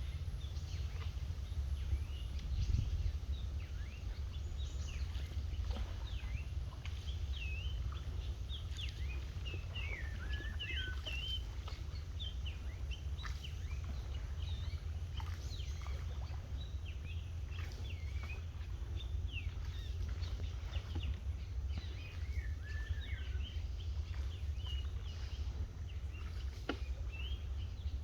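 Many small birds chirping and calling together in a swamp forest, with quick rising and falling notes scattered throughout. A steady low rumble runs underneath.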